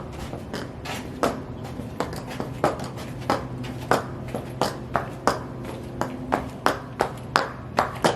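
High-heeled shoes striking a hard floor in steady, evenly paced steps. Each heel strike is a sharp click, about three every two seconds.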